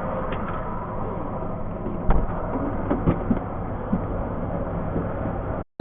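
A truck running, a steady, dull, muffled sound with a few light clicks and knocks; it cuts off abruptly near the end.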